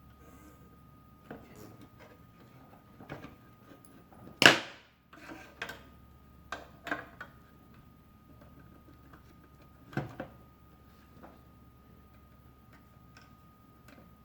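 Scattered clicks and knocks of hands handling the toy bank's parts and mechanism, at uneven intervals, with one much louder knock about four and a half seconds in.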